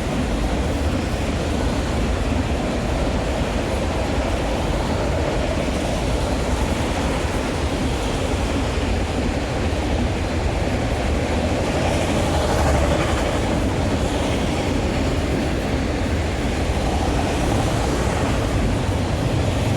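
Freight train rolling past: steady noise of steel wheels on the rails and the rail cars going by.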